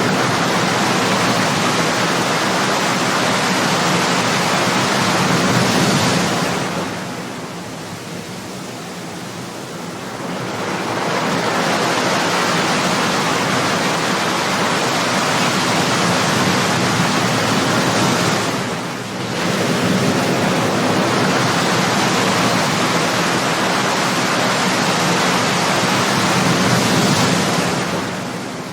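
Ocean waves breaking and washing up in a continuous rush of surf, easing off about seven seconds in and briefly again before building back up.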